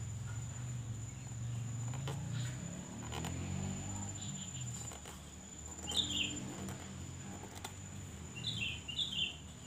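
Small birds chirping a few times in short twittering calls, over a steady low hum and a thin, high steady whine, with a few faint clicks in the first half.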